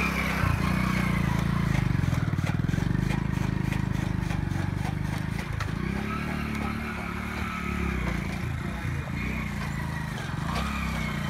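Honda single-cylinder motorcycle engine running at low speed under load as the bike pulls the wooden beam that turns the fodder cutter's gear. The engine note dips briefly about five and a half seconds in and again near nine seconds.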